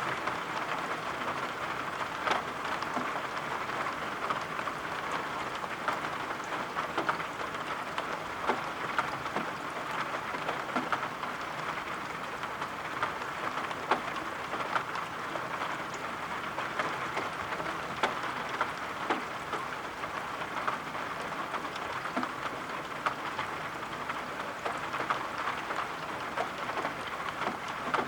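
Steady rain falling, with frequent sharp taps of individual drops scattered irregularly through the patter.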